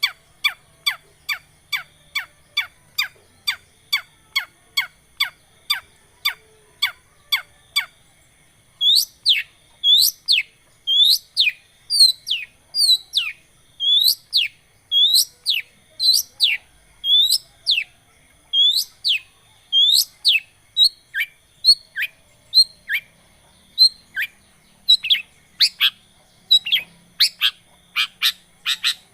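Long-tailed shrike calling in a fast series of sharp, steeply falling notes, about three a second. After about eight seconds it switches to slower hooked notes, about two a second, and turns quick again near the end.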